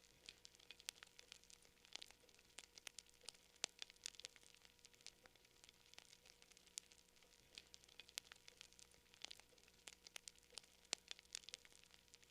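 Quiet campfire crackling: irregular sharp pops and snaps, several a second, over a faint hiss.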